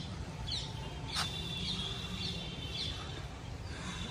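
Small birds chirping in short, repeated high calls over a steady low outdoor rumble, with one sharp click about a second in.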